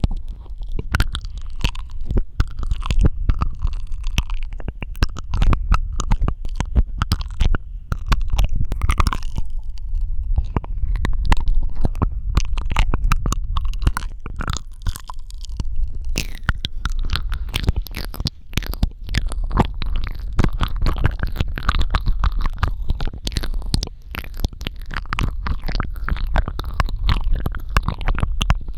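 Close-miked ASMR mouth sounds: a dense run of wet clicks, smacks and tongue sounds, many each second, over a steady low rumble.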